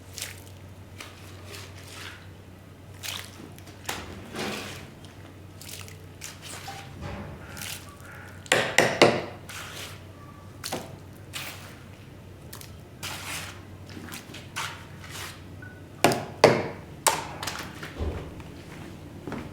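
Mud-soaked shag rug being worked wet: a series of short squishing, scraping strokes through sludgy pile, the loudest around nine and sixteen seconds in.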